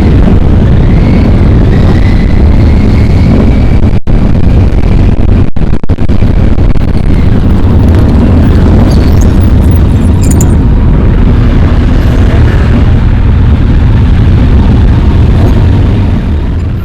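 Motorcycles riding, their engines making a loud, distorted low rumble mixed with heavy noise on the microphone. The sound cuts out briefly twice, about four and five and a half seconds in.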